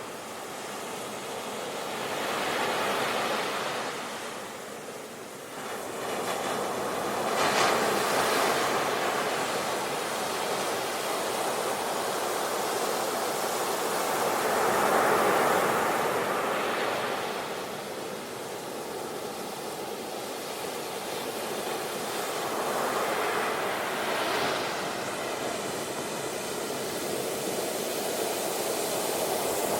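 Sea waves breaking on a shore: a steady wash of surf that swells and falls back every few seconds, loudest about eight and fifteen seconds in.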